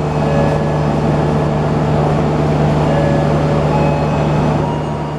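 Passenger train running along the line: a steady rumble of wheels on rails with a constant low hum.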